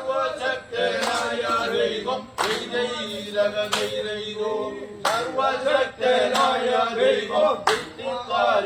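A group of men singing a chant-like song in chorus, with sharp claps or beats every second or two.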